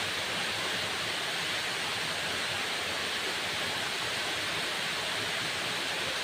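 Waterfall: a steady rush of falling water, an even hiss strongest in the upper-middle range, with no change or break.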